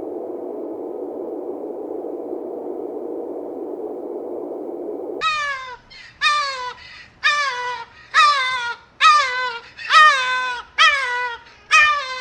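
A steady, even hiss for about five seconds, then an animal or bird calling about eight times, roughly once a second, each call rich-toned and falling in pitch.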